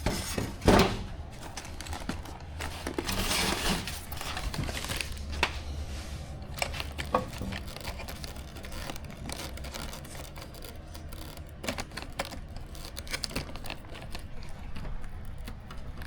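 Small plastic kit parts and packaging handled at a work table: scattered light clicks and taps, with a stretch of rustling about three seconds in.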